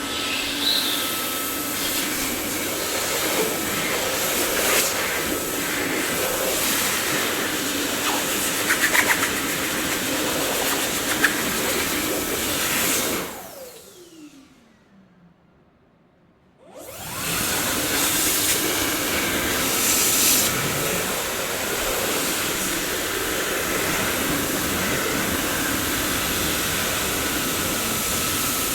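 Dyson vacuum cleaner running with a steady rushing noise and a few brief rattles. About halfway through it is switched off, its whine falling as the motor spins down, and a few seconds later it is switched back on and quickly returns to full speed.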